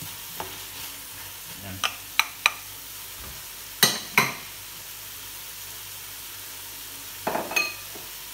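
Sliced vegetables frying in a wok with a steady sizzle, broken by several sharp clacks against the pan, the two loudest about four seconds in.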